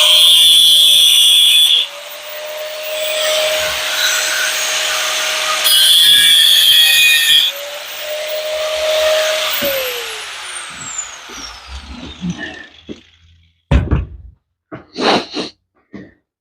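Electric grinder running at speed and cutting into metal twice with loud, screechy bursts. It is switched off about ten seconds in and winds down over a second or two, and a few short metal knocks follow near the end.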